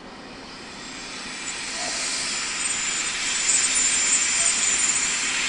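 Arriving passenger train running in towards the platform, its rolling noise growing steadily louder as it nears. A thin, high squeal joins it about two seconds in and is strongest in the last seconds.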